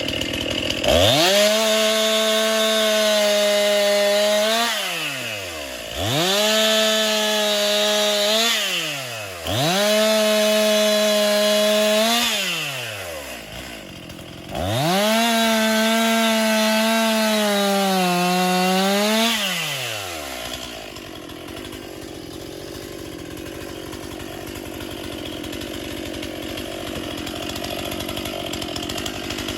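Two-stroke chainsaw run at full throttle in four bursts of a few seconds each, its pitch gliding down as the throttle is released after each one; in the last and longest burst the pitch sags as the chain bites into the wood. A lower, steady noise follows for the last third.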